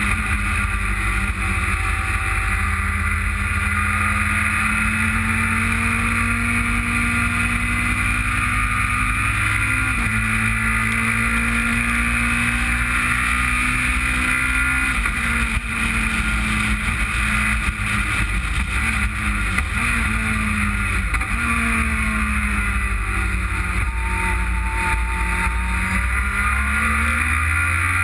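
Onboard sound of a car's engine at speed on a race circuit, its note climbing under acceleration and dropping or jumping at gear changes several times, over a steady rush of noise.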